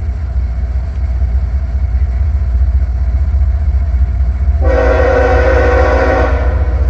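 Heavy low rumble of an approaching loaded coal train's GE diesel locomotives; about two-thirds of the way in, the lead locomotive's Nathan K5HL five-chime air horn sounds one blast of about two seconds.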